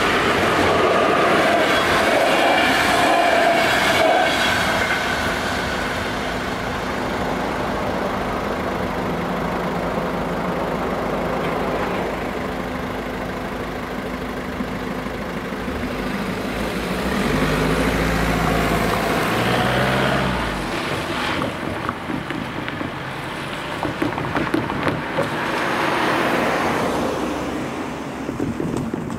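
Train noise, loudest at the start, with steady tones that slowly fall as it moves away. Then road traffic: about two-thirds of the way in, a car's engine climbs in pitch in steps as it pulls away across the tracks, and another vehicle passes near the end.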